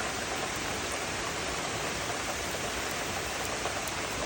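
Heavy rain pouring down in a steady downpour, an even continuous hiss with small drop ticks.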